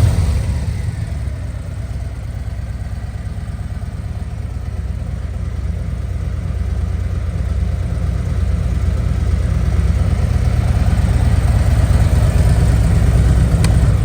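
Harley-Davidson Road Glide ST's Milwaukee-Eight 117 V-twin idling through aftermarket slip-on mufflers, a steady low idle that eases down in the first couple of seconds after a throttle blip.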